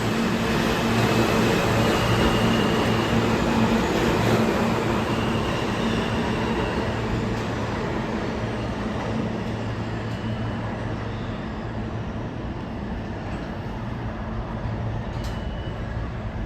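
New York City subway train running through an underground station: a dense, steady rumble with a low hum that slowly fades.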